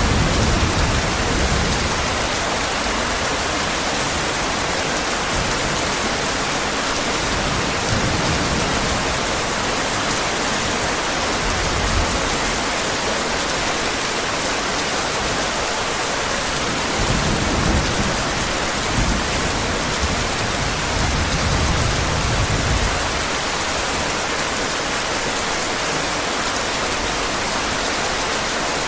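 Heavy rain falling steadily, with low rolls of thunder: one at the start and several more through the middle, the longest in the second half.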